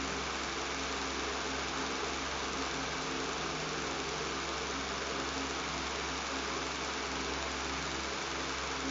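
Electric fan running steadily: an even whoosh of moving air over a low, constant motor hum and buzz.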